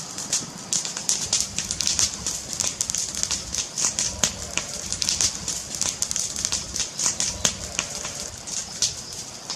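Fire crackling: a dense, irregular run of sharp pops and snaps over a low steady hiss, with a few louder cracks.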